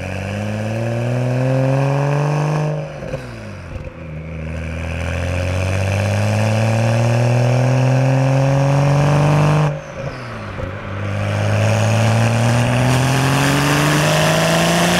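BMW M135i's N55 3-litre turbocharged straight-six accelerating through the gears of its manual gearbox. The engine note rises steadily, drops at an upshift about three seconds in, climbs again, drops at a second upshift near ten seconds, and climbs once more.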